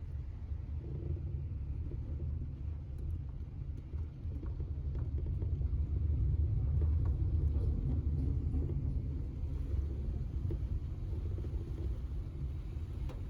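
Low, steady rumble of a moving car, swelling slightly louder around the middle.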